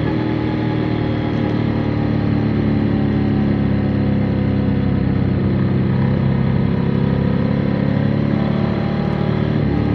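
Motorcycle engine running steadily while riding, its note dipping slightly and then rising again near the end, with road and wind noise underneath.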